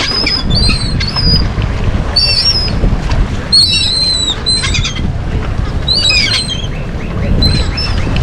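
A flock of seagulls calling over and over, many short high squawking cries overlapping as they crowd in for thrown bread, with a steady low rumble of wind on the microphone.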